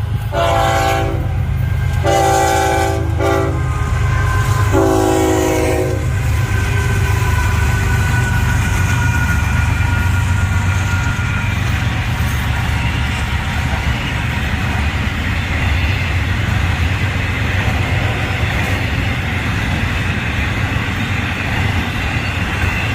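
Florida East Coast Railway freight train passing: the locomotive horn sounds three blasts in the first six seconds, then the train rumbles steadily by with rolling wheel and car noise.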